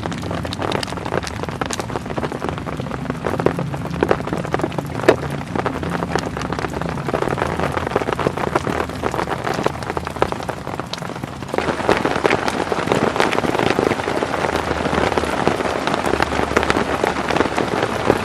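Heavy rain falling on a tent, a dense patter of countless drops that grows heavier about twelve seconds in.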